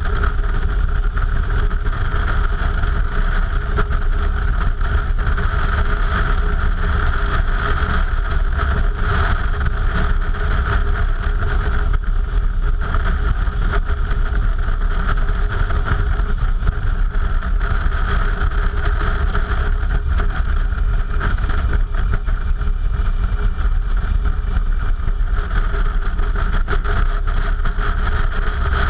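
Suzuki V-Strom motorcycle running steadily on the move, its engine and road noise picked up by an on-bike action camera.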